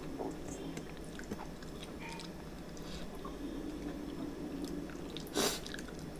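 A person chewing and eating rice and curry with his fingers from a stainless steel plate, with small wet mouth clicks. One louder sharp sound about five seconds in.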